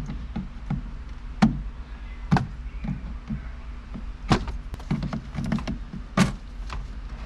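Irregular sharp clicks and knocks of plastic interior trim being worked loose from a car door panel, with four louder snaps among lighter taps, over a steady low hum.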